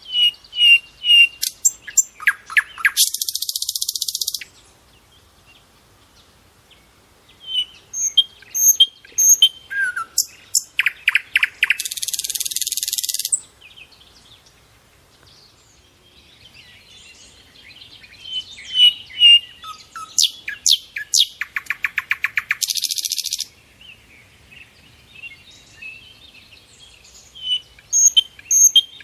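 Birdsong. The same phrase comes three times, about every nine to ten seconds: a run of quick chirps and whistles that ends in a harsh, buzzy trill lasting about a second and a half.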